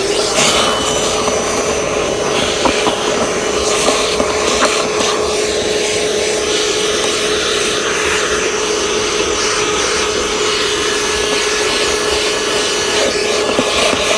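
Milwaukee M18 cordless 2-gallon wet-dry vacuum switching on and running steadily with a steady whine, sucking up spilled tea, with brief irregular crackles throughout.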